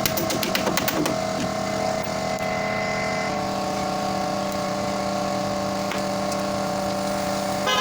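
A motor running with a steady, even hum. For about the first second a rapid rattle of sharp strikes, about ten a second, sounds over it, then stops.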